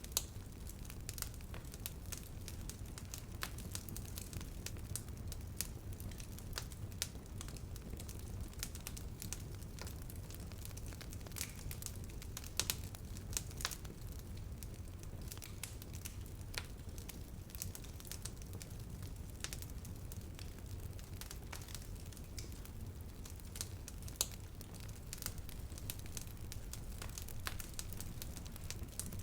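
Wood fire burning, crackling with frequent irregular sharp pops over a low steady rumble of flames.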